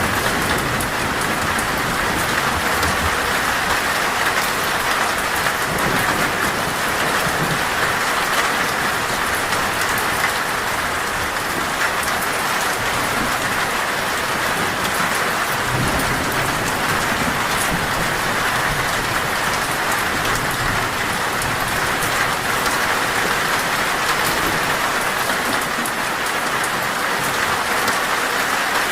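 Heavy, torrential rain drumming steadily on a metal roof, with low rolls of thunder rumbling underneath, the clearest about halfway through.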